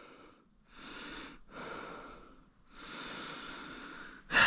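A person breathing heavily close to the microphone, three soft breaths and then a louder, sharper exhale near the end.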